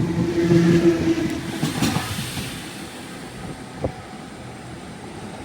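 Train running with a steady low motor hum that fades away through the second half, as if it is moving off into the distance. There is a single sharp click near the end.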